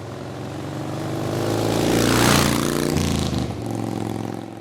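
Motorcycle engine running steadily while riding, with a rush of noise that swells to a peak about two seconds in and fades.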